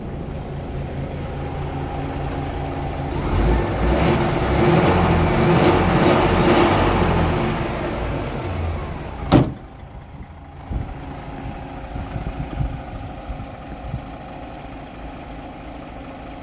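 DAF XF 480 tractor unit's diesel engine running. It builds louder for several seconds, with a whistle that falls away, then a single sharp knock is followed by a steady idle.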